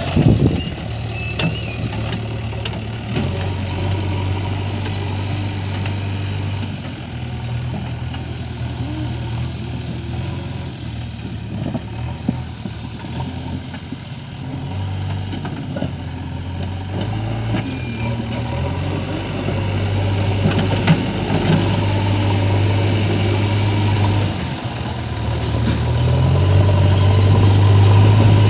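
Heavy diesel engine running at work, its speed stepping up and down, louder near the end.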